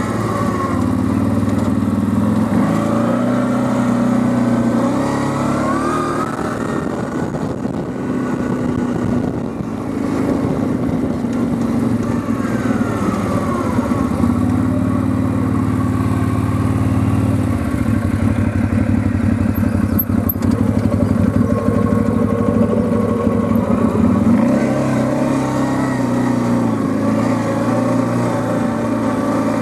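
Quad bike (ATV) engine running while being ridden, its pitch rising and falling with the throttle several times, with a rough, rapid pulsing in places.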